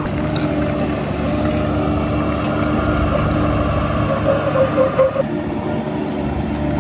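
Heavy diesel earthmoving machinery running steadily. A louder, higher tone comes in about four seconds in and cuts off suddenly about a second later.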